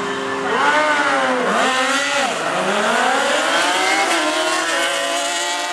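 Sport bike engines launching down a drag strip and accelerating hard through the gears. The pitch climbs, drops sharply at each upshift, and climbs again: three upshifts, about a second, a second and a half, and four seconds in.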